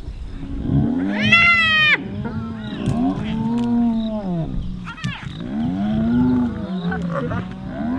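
Several animals calling over one another in drawn-out, wavering moans that rise and fall in pitch, with the loudest call about a second in.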